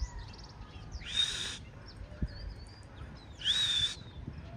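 A bird gives two harsh screeching calls about two seconds apart, with small birds chirping faintly in the background.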